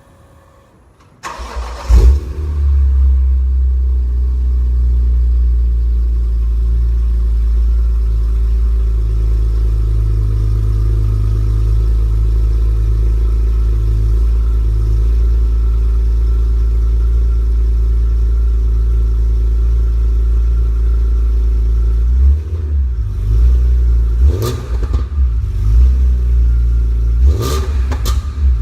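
BMW E46 M3's S54 inline-six, breathing through an aftermarket Arqray exhaust, starts about a second in with a brief flare of revs and settles to a steady idle. Near the end it is given several quick throttle blips.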